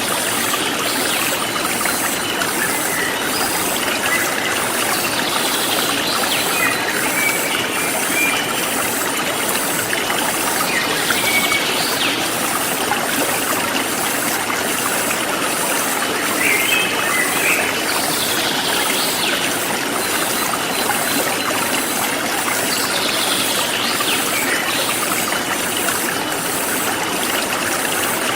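Forest stream flowing steadily, with birds giving short calls every few seconds and insects chirping high and steadily in a regular pulse.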